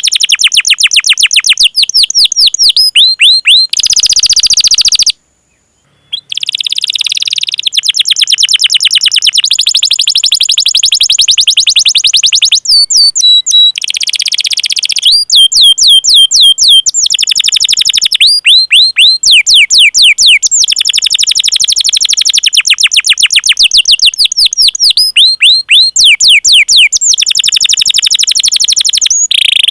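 Domestic canary singing, alternating fast rolling trills with runs of sharp falling 'cuit cuit' whistled notes, with a brief break about five seconds in.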